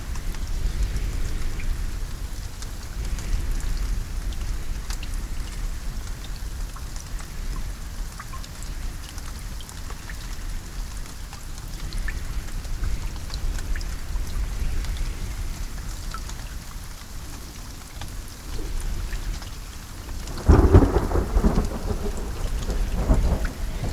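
Steady rain with scattered drops pattering on a surface under a low, continuous rumble. A loud thunderclap rolls in about twenty seconds in and rumbles for a few seconds, with another rumble near the end.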